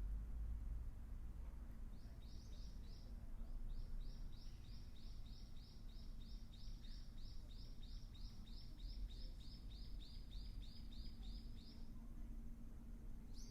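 Ryukyu Ruddy Kingfisher calling: a long run of evenly spaced high notes, about three a second, starting about two seconds in and stopping near the end, over a faint steady low hum.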